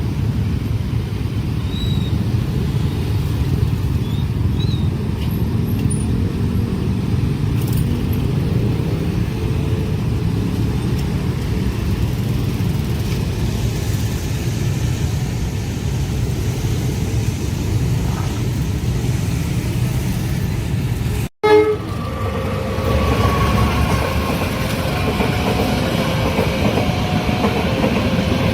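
Train passing over a level crossing with a steady low rumble of wheels and cars. About three quarters of the way in the sound cuts abruptly to another passing train, with short warning tones repeating at an even pace over the rumble.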